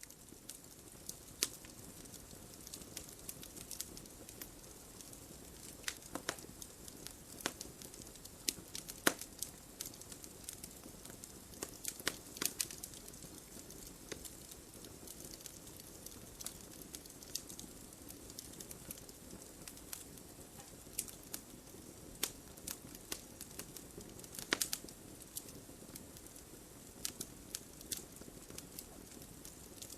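Fire crackling in a fireplace: a steady soft hiss with irregular sharp pops and snaps, a few noticeably louder ones scattered throughout.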